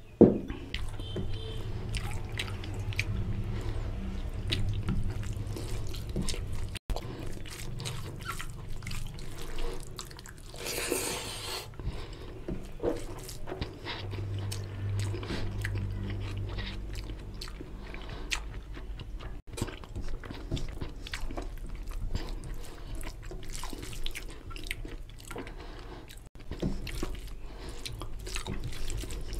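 Close-up mouth sounds of a person eating curry and rice by hand: chewing and wet lip smacks, with squelches of fingers mixing rice into the oily gravy. A sharp smack comes right at the start.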